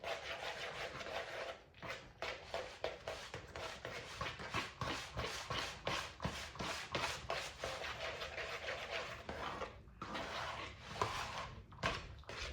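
A utensil stirring butter through drained macaroni noodles in a bowl: irregular scraping and clicking against the bowl.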